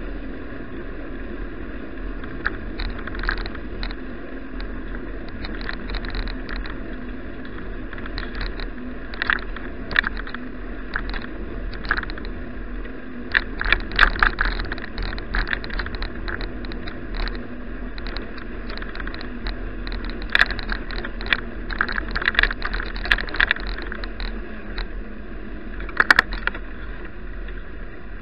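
Steady road and wind noise of a moving bicycle, with frequent small clicks and rattles, the loudest bunches about fourteen and twenty-six seconds in.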